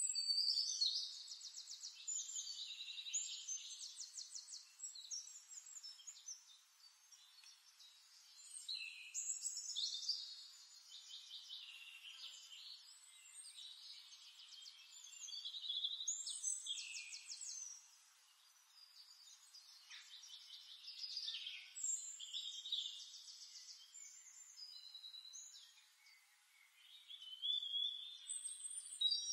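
A songbird singing: high phrases of fast trills and chirps, repeated every few seconds.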